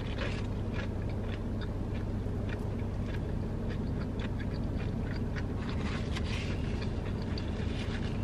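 Close-up chewing of a mouthful of fried chicken sandwich: many short, soft mouth clicks and smacks, over a steady low hum.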